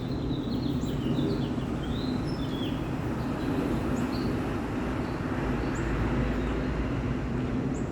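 Steady low mechanical hum with a constant drone, with short high bird chirps over it, most of them in the first few seconds.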